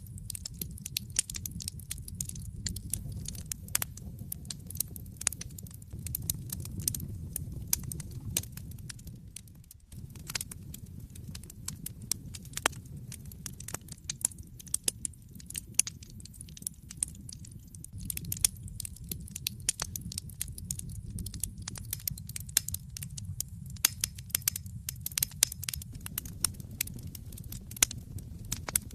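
Wood fire crackling in a fireplace: frequent sharp pops and snaps over a steady low rumble of flames.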